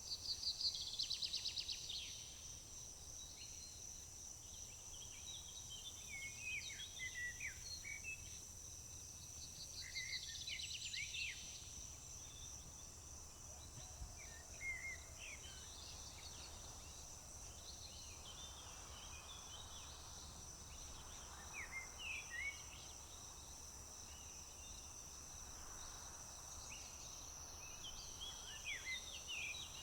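Summer field ambience: a steady high-pitched drone of chirping crickets, with songbirds singing short chirps and quick trills over it. The loudest are a rapid trill in the first two seconds and another about ten seconds in.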